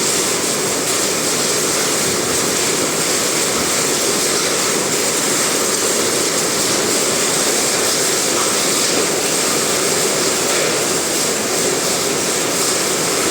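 Very heavy rain mixed with hail, a dense steady hiss with no let-up.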